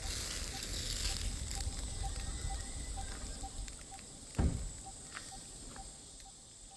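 Outdoor ambience: a steady high-pitched insect drone with a short low note repeating about twice a second, over low rumble from wind or handling on the microphone. One thump about four seconds in.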